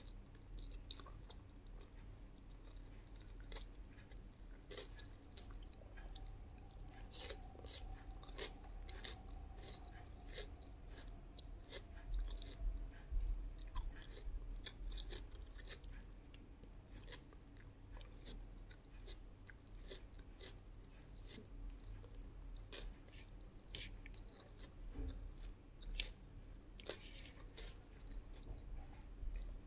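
Close-miked chewing and mouth sounds of someone eating a meal of rice, fried fish and fried egg: many small wet clicks and smacks, busier at times.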